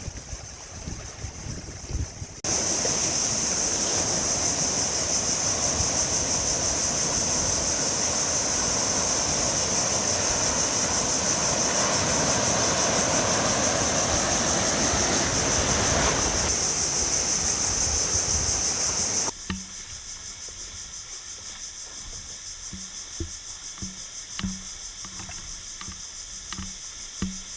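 Sea waves rushing and washing, a loud steady roar of water that cuts in a couple of seconds in and stops abruptly near the end. Quieter stretches either side hold faint knocks.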